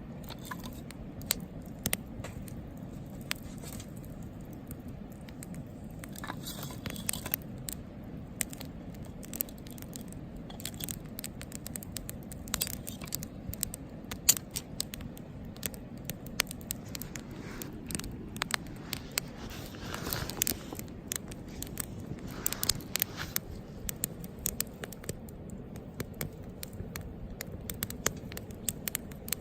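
Wood campfire burning in a Picogrill fire stand, crackling and popping irregularly over a steady low rumble, with a few short hisses.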